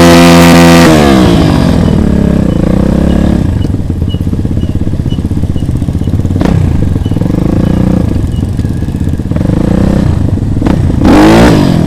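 Motorcycle engine revving high, then dropping in pitch over the first couple of seconds and running at lower revs with small rises and dips. It revs up again briefly near the end.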